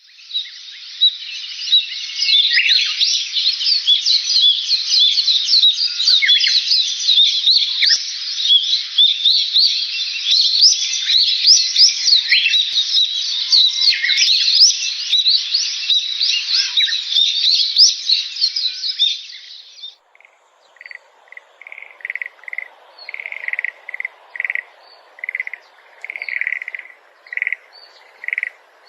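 A dense chorus of many overlapping high chirping animal calls. About two-thirds of the way through it cuts abruptly to a single repeated short chirp, about two a second, over a faint hiss.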